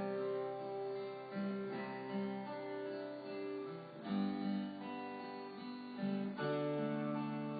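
Acoustic guitar strumming slow, sustained chords, changing to a new chord about every two to three seconds.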